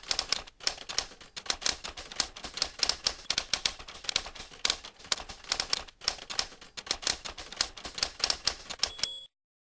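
Typewriter keys clattering in a rapid, uneven stream of clicks, cutting off abruptly about nine seconds in.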